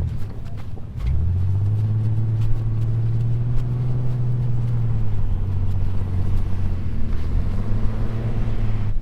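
A vehicle engine pulling under steady load, rising in about a second in and then holding an even note, as a Ford Raptor stuck in snow is driven and pushed out.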